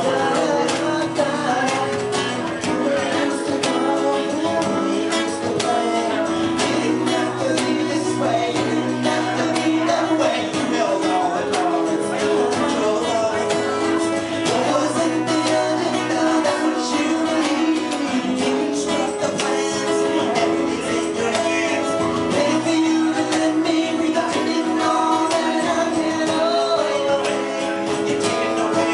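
A live band playing a song, with guitar and percussion.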